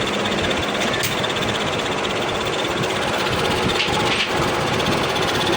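Workshop machinery running steadily during shaft repair work: a loud, continuous mechanical noise with no breaks.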